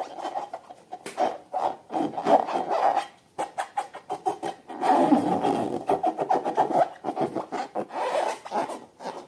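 Slime being squished and mixed by hand, a run of sticky crackling and clicking with brief pauses about three and a half and nine seconds in.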